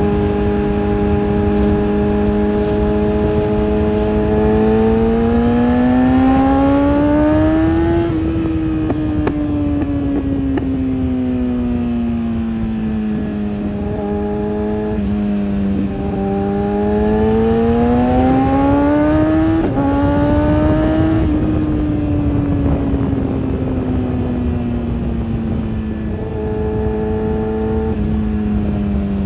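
Kawasaki ZX-6R's inline-four engine running through its exhaust. The pitch holds steady, climbs smoothly over a few seconds and eases back down, climbs again, then falls slowly near the end.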